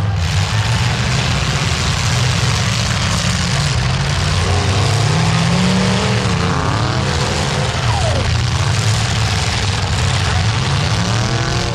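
Several demolition derby car engines running loudly together and revving, their pitch rising and falling between about four and seven seconds in.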